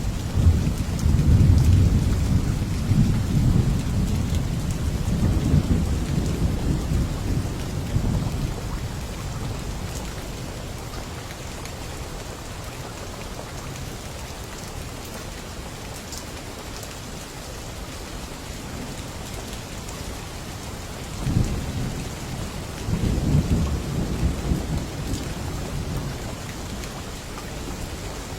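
Steady rain hissing, with rolls of thunder. A long rumble at the start fades out by about nine seconds in, and a second rumble breaks in sharply about two-thirds of the way through before dying away.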